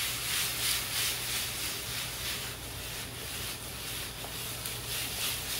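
Shrimp, bell peppers and onions sizzling in a hot frying pan as the pan is shaken and tossed. The sizzle is a steady hiss with faint irregular pulses from the moving food.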